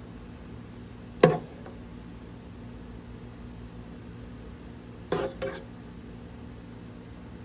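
Three sharp clinks of a utensil against a dish: one about a second in, then two close together a little after five seconds. A steady low hum runs underneath.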